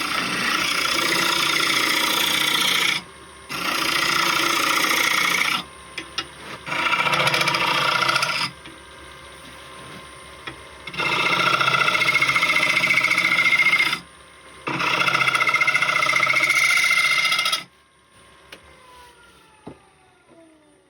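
Turning tool cutting a spinning laburnum blank on a wood lathe, scraping in five bursts of two to three seconds with short pauses between. Near the end the cutting stops and the lathe's motor whine falls in pitch as it spins down.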